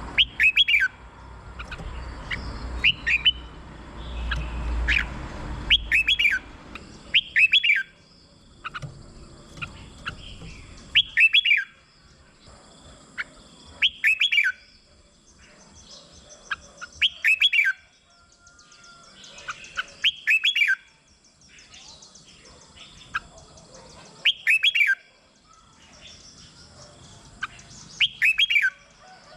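Red-whiskered bulbul singing: short, loud phrases of quick sweeping whistled notes, repeated about every three seconds, with softer chirps in between.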